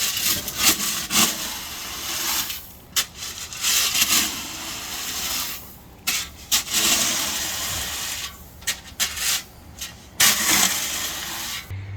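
A shovel scraping into gravel and throwing it, in repeated scrapes of a second or two each.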